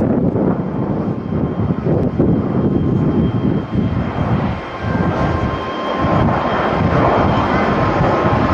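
Jet airliner engine noise: a steady rush with a faint thin whine that fills out and grows fuller near the end, mixed with gusty wind buffeting the microphone.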